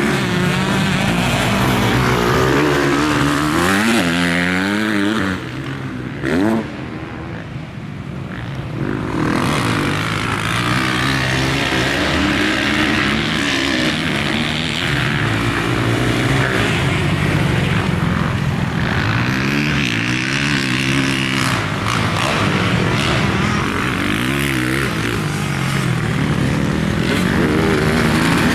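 Motocross dirt bike engine being ridden hard, its pitch climbing and falling with the throttle through the gears. About five seconds in it drops to a quieter lull with one short burst of throttle, then picks back up about nine seconds in.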